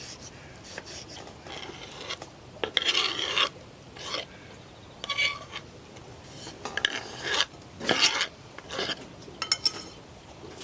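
A series of short scraping and rubbing sounds, about seven of them, each lasting under a second, over a faint steady background hiss.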